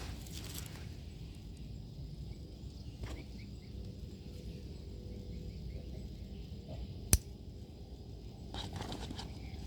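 Outdoor background rumble with brief rustles near the start and near the end, and one sharp click about seven seconds in.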